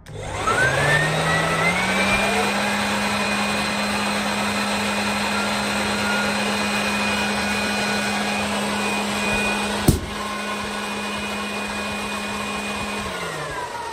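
A motor or engine spins up over about two seconds to a steady speed with a high whine, holds there, and winds down near the end; one sharp click about ten seconds in.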